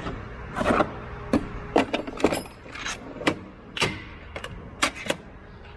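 Metal hand tools (ratchets and socket extensions) clinking and clattering as they are handled in a toolbox drawer: a series of about ten sharp clanks.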